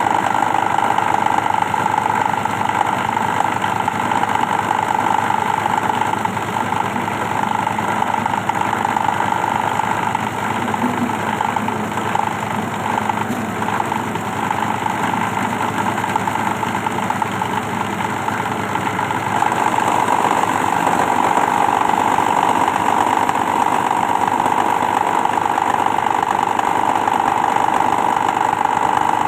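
Plastic shredding machine running with a steady hum. It goes somewhat quieter for several seconds in the middle, then comes back louder about two-thirds of the way through.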